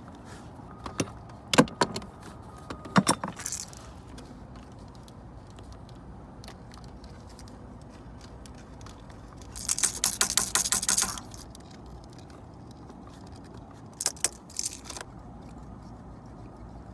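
Metal tools and parts clinking and rattling as they are handled, with a few sharp clicks early on and a second-long jangling rattle about ten seconds in.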